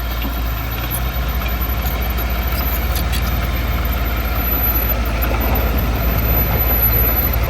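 Heavy diesel engine of earthmoving machinery running steadily with a low, fast-pulsing drone.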